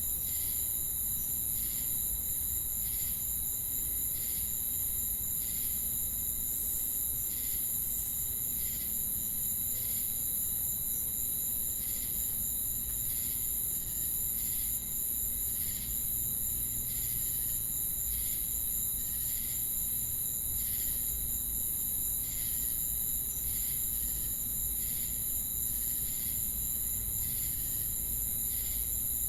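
Chorus of crickets and cicadas: a steady, very high-pitched insect buzz with evenly repeating chirps a little more than once a second.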